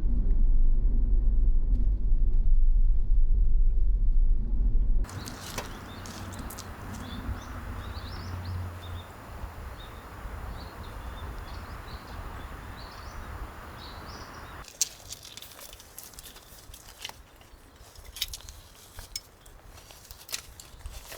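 A loud, deep vehicle rumble cuts off abruptly about five seconds in. It gives way to a quieter, steady hiss with small birds chirping over it. From about fifteen seconds in, scattered sharp clicks and knocks follow, like steps or handling on a gravel riverbank.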